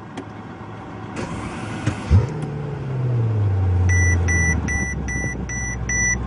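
2012 Mercedes-Benz S65 AMG's twin-turbo V12 started by push button: the starter cranks for about a second, the engine catches with a thump, flares up, and its revs fall back to a steady idle. From about four seconds in, a dashboard warning chime beeps steadily, roughly two and a half times a second.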